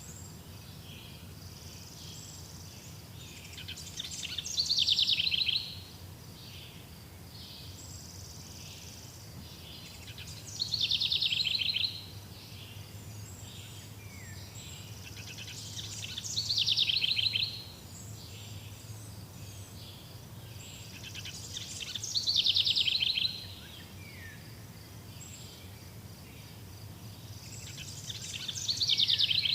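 A songbird repeating the same trilled song phrase about every six seconds, each phrase lasting under two seconds, over a steady faint background of forest noise.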